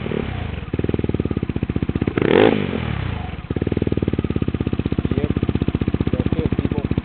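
Yamaha Zuma 155 scooter's single-cylinder four-stroke engine with a Yoshimura stainless steel exhaust, idling with an even, deep putt. It is revved once about two seconds in, the pitch rising and then dropping back to idle within about a second and a half.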